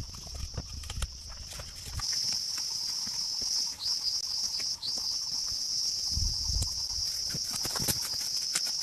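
Steady high-pitched insect chorus, louder from about two seconds in, with scattered light knocks and low thuds.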